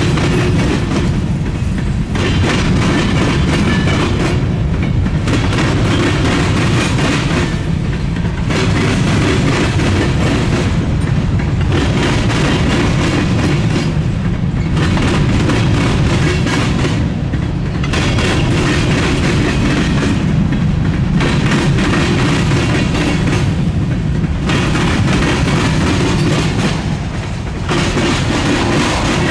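Freight train rolling past close by with a heavy, steady rumble of wheels on rail. The noise swells and fades in a regular rhythm about every three seconds as the cars go by.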